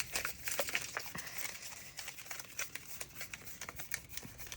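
Light handling of washi and PET tape rolls and their packaging: many small, irregular clicks and taps with faint rustling.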